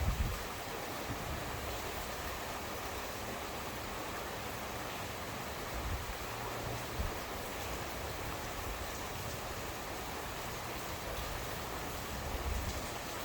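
Steady rain falling, an even hiss with a few brief low rumbles about six and seven seconds in and again near the end.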